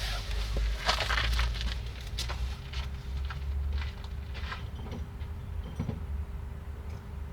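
Hand tools and small metal parts being handled and rummaged through: a run of clicks, clinks and rustles, busiest in the first few seconds, over a steady low rumble.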